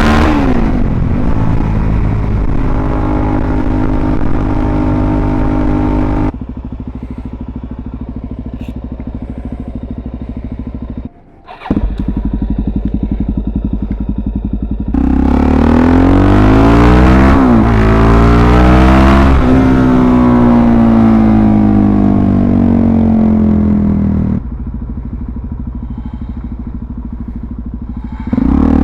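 Suzuki DR-Z400SM single-cylinder engine through a full Yoshimura RS-2 exhaust, running under way, its pitch rising and falling as the throttle is opened and closed. It drops to a quieter, lower steady run for stretches, with a brief near-silent cut about 11 seconds in, and is loud again from about 15 seconds in with rising and falling revs.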